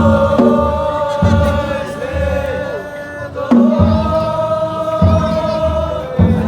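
Festival chant sung in long held notes over deep taiko drum beats that come about once a second.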